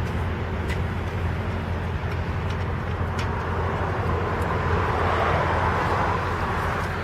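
An engine running steadily with a low hum, with a rushing noise that grows louder from just past halfway through.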